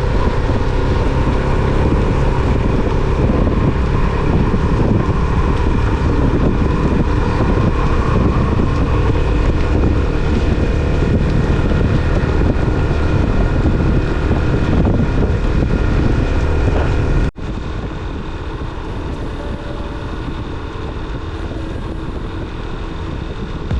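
Motorcycle engine running steadily on the move, with wind rushing over the microphone. About two thirds of the way through it cuts off abruptly and resumes a little quieter.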